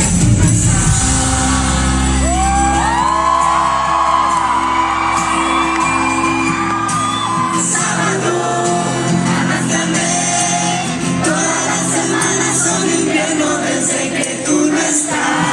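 Live pop-rock band music with singing, with crowd shouts and whoops over it. The deep bass drops out about five seconds in while the sustained sung and played tones carry on.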